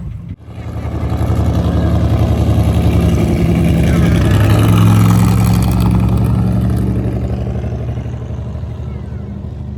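Vehicle engine running at low revs, growing louder until about halfway and then slowly fading, as if driving past or being moved slowly.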